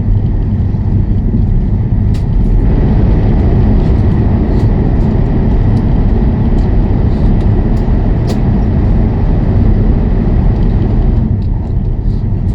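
Running noise of a CR400BF-Z Fuxing high-speed train at speed: a steady, loud low rumble with a rushing noise, which swells for most of the middle and eases off near the end.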